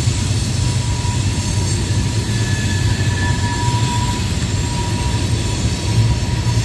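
Freight train rolling past across the valley: a steady low rumble of the cars on the rails, with a faint, thin wheel squeal coming and going in the middle, the wheel flanges squealing on the curve.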